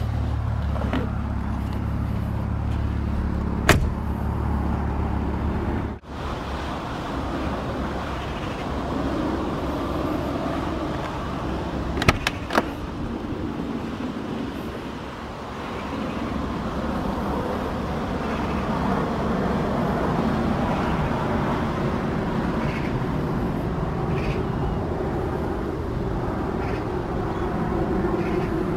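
Steady low vehicle rumble with a few sharp clicks: one about four seconds in and two close together around twelve seconds. The sound dips and changes abruptly about six seconds in.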